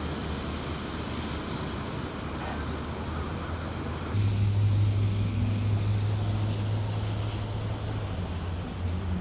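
Outdoor street noise with a steady low vehicle-engine hum, which gets louder about four seconds in.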